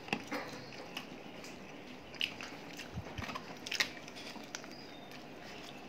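A child biting and chewing KFC fried chicken: faint mouth sounds with scattered small clicks and crackles.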